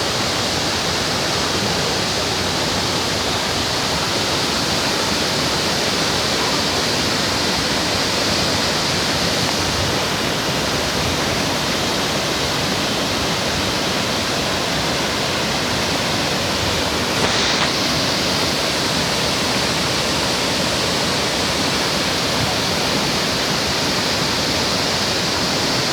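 Waterfall: the steady, loud rush of a river cascade.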